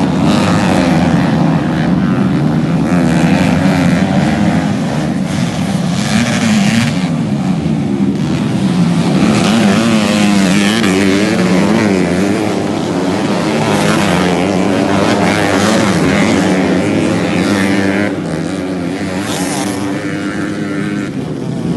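Several racing motorcycles' engines revving hard on a dirt track, their overlapping notes rising and falling as the riders accelerate and back off, a little quieter near the end.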